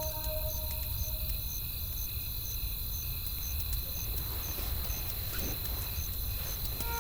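Night insects, likely crickets, chirping in an even pulse about twice a second, over a crackling campfire with a steady low rumble of wind. Held music notes fade out in the first second or so.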